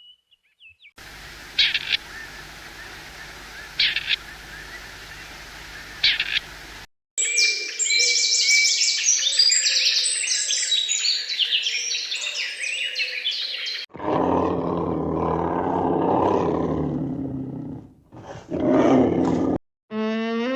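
A string of separate animal recordings. First come three short high calls about two seconds apart over a background hiss. Then a dense chorus of many birds chirping and twittering, followed by a low, rough, roar-like animal call.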